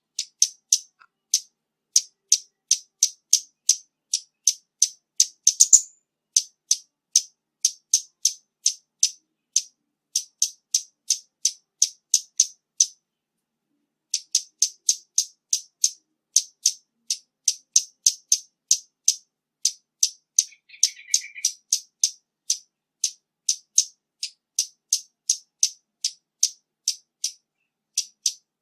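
Scarlet-backed flowerpecker calling: a long series of sharp, high ticks, about two and a half a second, with one short pause midway.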